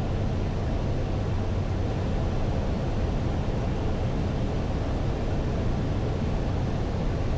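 Steady in-flight drone of a Cessna Caravan's single Pratt & Whitney PT6A turboprop engine and propeller, heard in the cockpit, with a thin high whine over it.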